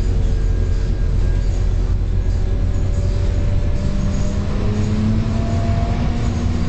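Scania K230UB single-deck bus running under way, with a steady low engine drone. About four seconds in, a humming tone comes in and a higher whine climbs slowly as the bus gathers speed.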